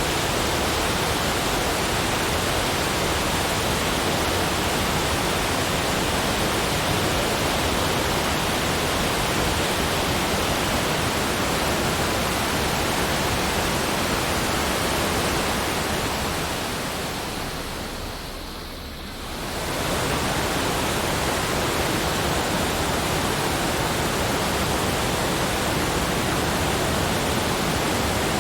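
Steady, even rushing noise with no separate events. It fades down briefly about two thirds of the way through and then comes back to the same level.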